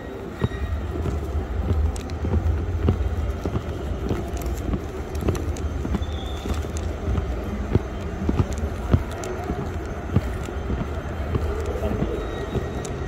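Metro train running, a steady low rumble with frequent sharp clicks and knocks.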